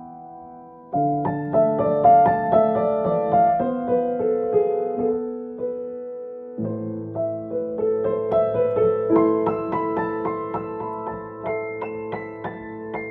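Solo piano playing a piece in A minor. A held chord fades for the first second, then new chords start. Deep bass notes come in about halfway through, and higher notes are added near the end.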